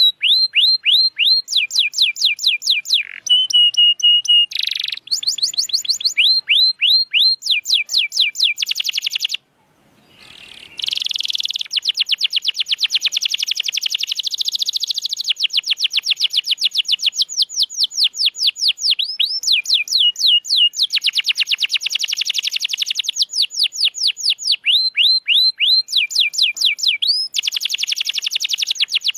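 Domestic canary singing in long rapid trills of repeated notes, switching from one rolling phrase to the next every second or two. The song breaks off for about a second roughly a third of the way through.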